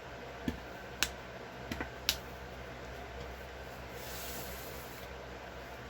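A needle piercing cardstock to punch stitching holes along a pattern: a few sharp clicks in the first two seconds, then a brief soft rustle of paper about four seconds in.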